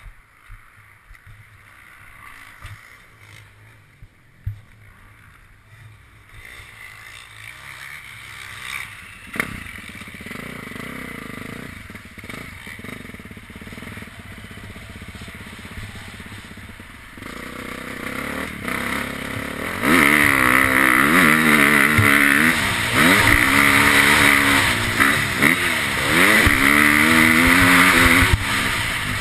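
KTM motocross bike engine, quiet at first with a few knocks, then loud from about two-thirds through, revving up and down repeatedly as the bike is ridden, easing off near the end.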